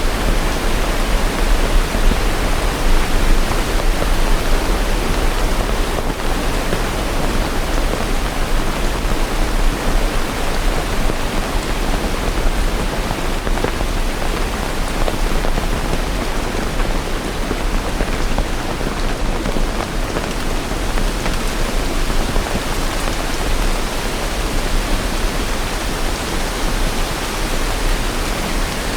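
Steady rain, a dense, even hiss of falling water with a low rumble underneath and no thunder.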